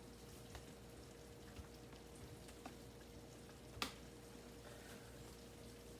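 Faint simmering of a stroganoff sauce in a pan, with a steady low hum and a few light clicks; the sharpest click comes about four seconds in.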